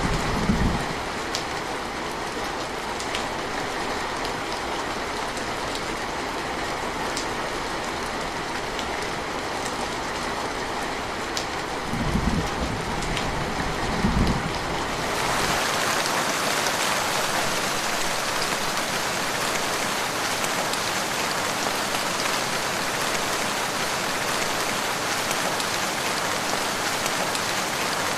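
Steady rain falling, with a low rumble of thunder dying away at the start and two short low rumbles a little before the halfway point. About halfway through the rain changes to a brighter, hissier patter with no low rumble under it.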